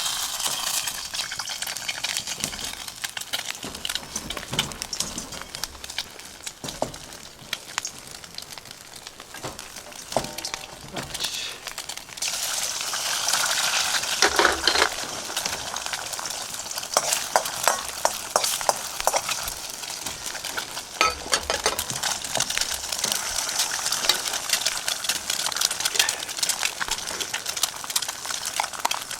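Food sizzling in hot oil in a wok over a campfire, with a spatula scraping and clicking against the pan as it is stirred. The sizzle starts suddenly as the food goes in and gets louder about twelve seconds in.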